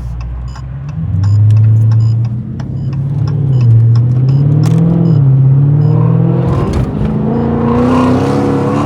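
2020 Dodge Charger Scat Pack's 6.4-litre HEMI V8 through a straight-piped exhaust, accelerating hard. The engine note climbs in pitch, dips a couple of times in the middle as it shifts, then climbs again.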